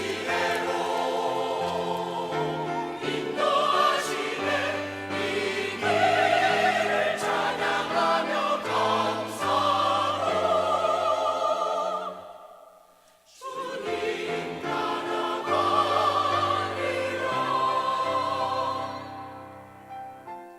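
Choir singing sustained notes with vibrato over low accompaniment. The music breaks off briefly about two-thirds of the way through, then the voices come back in and fade toward the end.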